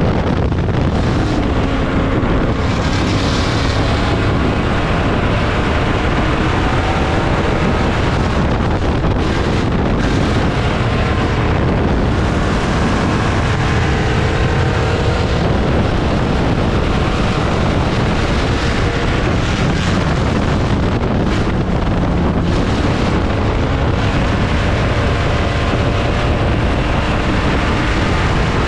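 Dirt-track race car engines running loud and steady at racing speed, their pitch rising and falling, with wind buffeting the microphone.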